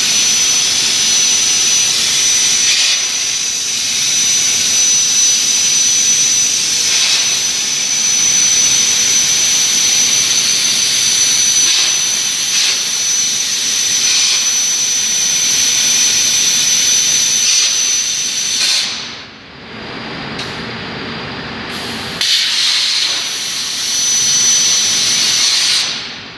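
CNC plasma cutter torch cutting metal: a loud, steady hiss with a thin high-pitched whine. It cuts off about three-quarters of the way through, starts again a few seconds later and stops once more near the end.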